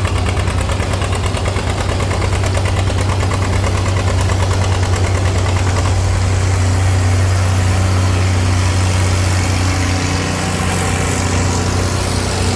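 Antique farm tractor engine running hard under load as it pulls the sled, a deep, steady low engine note with a quick firing beat that shifts slightly in tone about halfway through.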